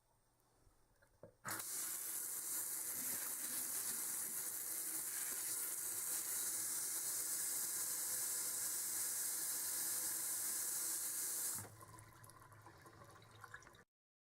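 Water running steadily from a tap, turned on about a second and a half in and shut off about ten seconds later.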